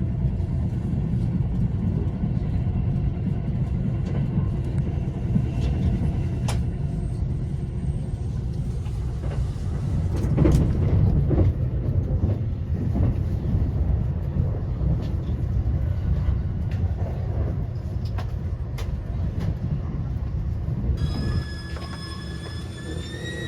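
E353 series limited express running on the rails: a steady low rumble with scattered sharp clicks. Near the end the rumble drops and several steady high tones set in, creeping slightly upward in pitch.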